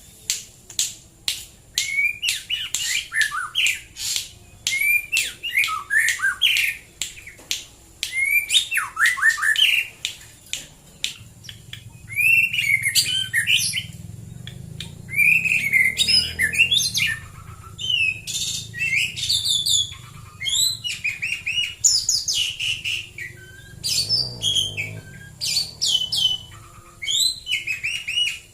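White-rumped shama (murai batu) singing a long run of varied, rapid whistled and chattering phrases, many sweeping up and down, with short pauses between them.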